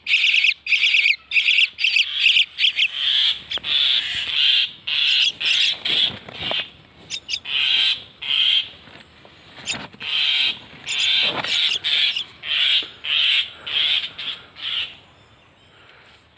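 Common myna giving a long series of short, high calls, one after another, which stop near the end.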